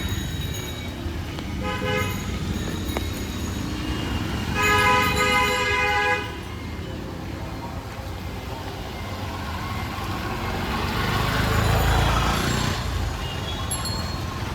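Busy street traffic with vehicle horns: a short horn toot about two seconds in, then a longer, louder horn blast from about four and a half to six seconds. Engines rumble underneath, and a passing vehicle swells and fades near the end.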